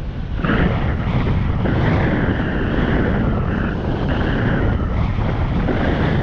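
Steady rush of wind on the microphone over a motorbike running along the trail.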